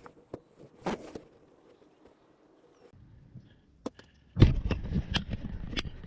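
Clicks and knocks of hand tools and metal parts being handled under a car during transmission pan removal, with a louder stretch of clattering and rustling about four and a half seconds in.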